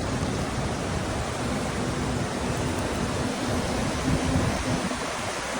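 Wind rushing and buffeting over the microphone of a camera held while riding a bicycle, with a faint steady hum under it.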